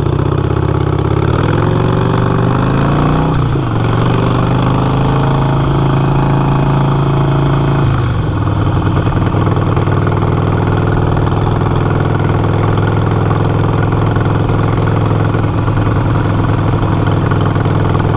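Harley-Davidson Iron 883's V-twin engine pulling away with its pitch rising, shifting up about three and a half seconds in and again about eight seconds in, then running at a steady pitch.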